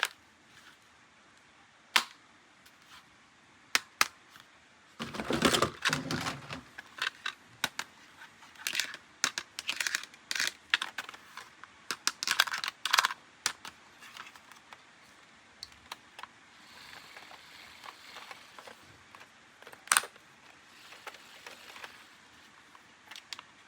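Plastic toys and their packaging being handled: sharp clicks and snaps, with a burst of rustling about five seconds in and a run of quick clicks after it.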